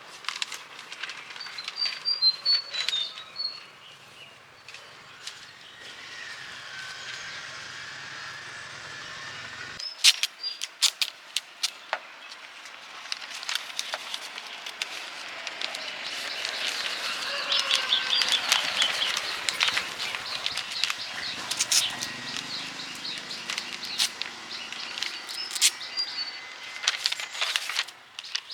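Outdoor ambience with small birds chirping in short high calls, over scattered sharp clicks and knocks and a hiss that swells through the middle.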